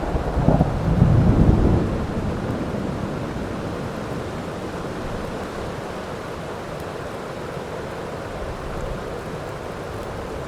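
Thunderstorm: a loud thunder rumble in the first two seconds, fading into steady heavy rain.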